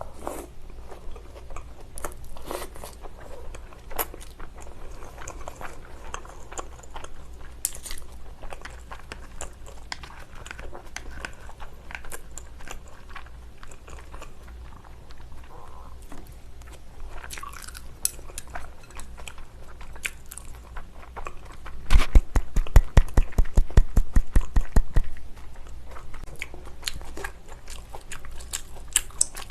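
Close-miked chewing of salmon sashimi, with wet mouth clicks and smacks. About twenty-two seconds in comes a louder three-second run of quick, even clicks, about seven a second.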